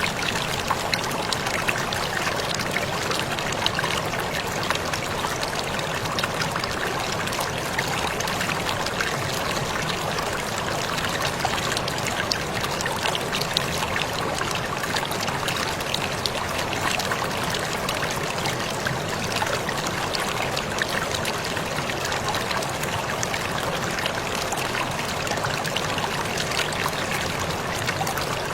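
Waterfall: water falling and splashing in a steady, unbroken rush, with a fine patter of splashes running through it.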